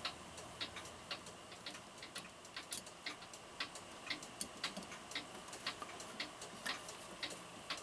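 A mechanical clock ticking steadily, about two sharp ticks a second.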